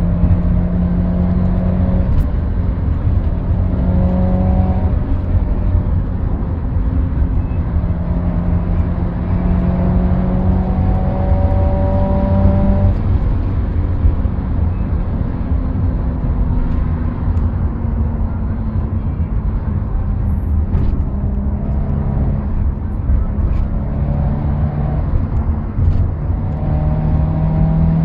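Subaru Impreza WRX STI's turbocharged flat-four heard from inside the cabin: a steady low rumble whose engine note climbs in pitch and drops back several times as the car accelerates through the gears, over road noise.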